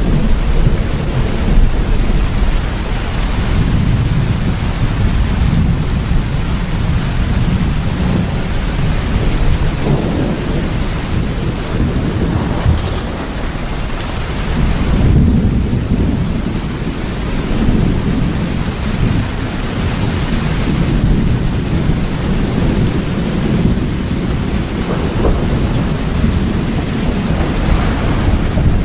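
Steady heavy rain with low rumbling thunder that swells and fades slowly, with no sharp cracks.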